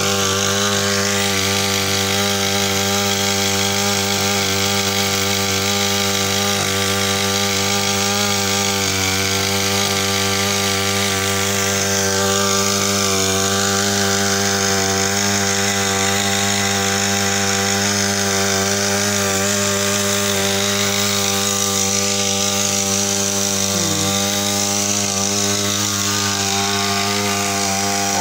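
Portable power sprayer's 42.7 cc two-stroke petrol engine running steadily at a constant speed.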